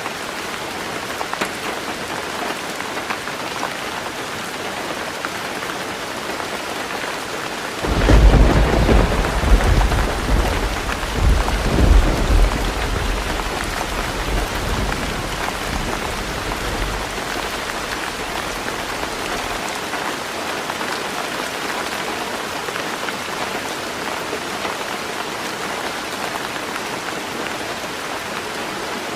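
Heavy rain drumming steadily on a tin roof, with a thunderclap about a quarter of the way in whose deep rumble swells again shortly after and rolls away over several seconds.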